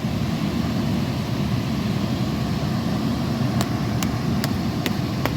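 Bouncy castle's electric inflation blower fan running steadily with a low rushing hum. About three and a half seconds in, five light sharp clicks come in quick succession.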